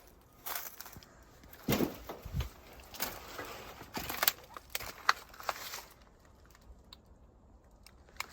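Irregular clicks, scrapes and a few dull thumps of a person moving about on foot, stopping about six seconds in.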